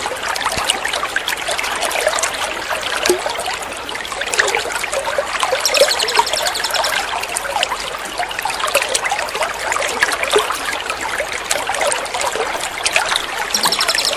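Water trickling and splashing steadily. Over it, a small songbird gives a fast run of repeated high chirps about five and a half seconds in and again near the end.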